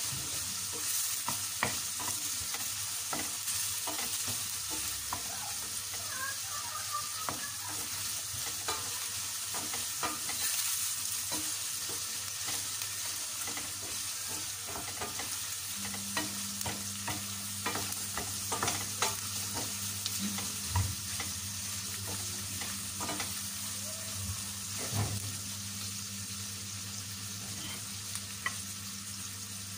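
Beef chunks and onion sizzling in butter in a stainless steel pan, stirred with a wooden spatula that scrapes and knocks against the pan in scattered clicks. A steady low hum runs underneath.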